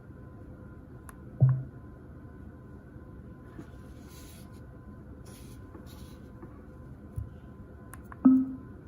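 Quiet room tone with a faint steady hum, broken by a short low thud about one and a half seconds in and a brief low tone near the end.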